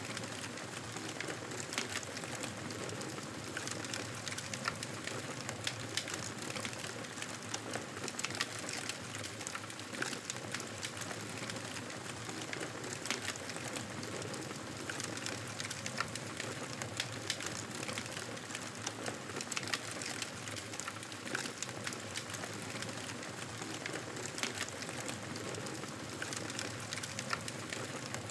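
Campfire burning with a steady hiss and frequent small crackles and pops scattered throughout.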